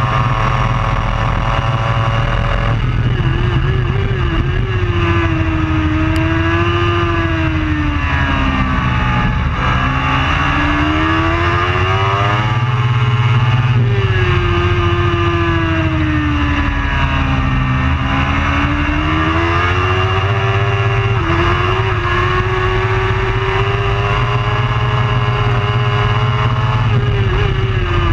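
Superbike racing motorcycle engine running hard, its pitch falling and climbing again over several seconds as the rider brakes and accelerates, with a couple of abrupt pitch steps from gear changes.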